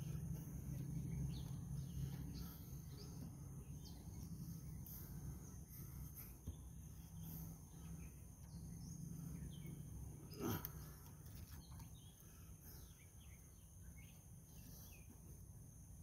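Faint outdoor ambience: scattered bird chirps over a low steady hum that fades about ten seconds in, with one soft knock around then.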